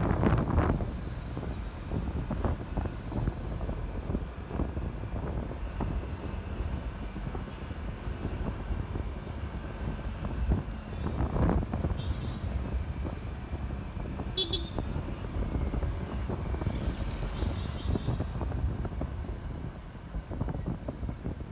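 Wind buffeting the microphone, with engine and road noise from a Honda ADV 150 scooter riding through traffic, swelling louder twice. About fourteen seconds in comes one short high-pitched beep.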